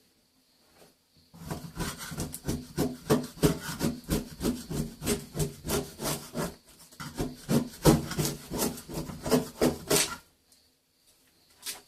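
Rapid repeated scraping strokes over a wet-area wall join, from about a second in until near the end, working off paper tape and glue plaster that never bonded to the cement sheet.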